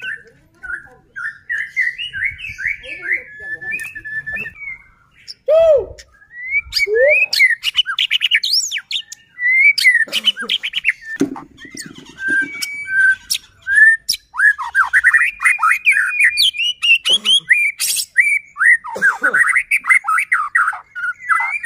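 White-rumped shama (murai batu) in full song: a long, unbroken run of varied whistled phrases and fast trilling sweeps, with a few lower gliding notes.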